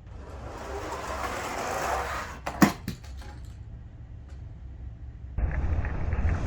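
Die-cast toy monster trucks rolling fast down a plastic track with a building rolling rattle, then a sharp clack about two and a half seconds in, as a truck lands or hits the track, followed by a few smaller clatters. A music bed with a steady low beat runs underneath and gets louder near the end.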